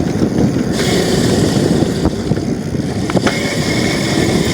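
Rough, steady rumble of riding a dirt bike, with a couple of short knocks partway through.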